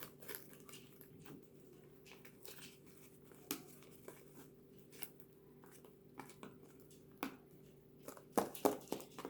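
Slime being mixed as the activator makes it clump, giving scattered sticky clicks and crackles with a quick cluster of louder ones near the end. A faint steady hum runs underneath.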